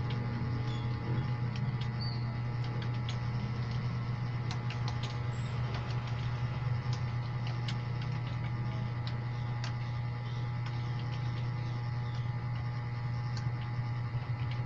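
Irregular, sparse keyboard key clicks, fewer after the first half, over a steady low hum that is the loudest sound throughout.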